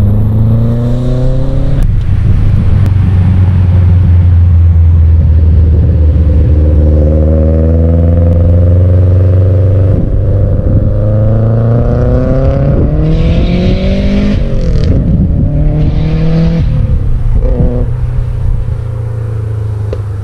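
Subaru Impreza WRX STI's turbocharged flat-four boxer engine under way with a heavy low drone, its pitch climbing slowly as the car accelerates, then dropping back twice in the last few seconds as it comes off the throttle or shifts, with short bursts of hiss just before each drop.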